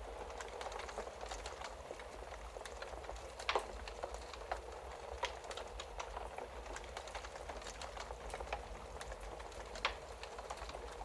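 Wood fire crackling in a fireplace: a steady soft hiss with irregular snaps and pops, the loudest pop about three and a half seconds in and another near the end, over a low steady rumble.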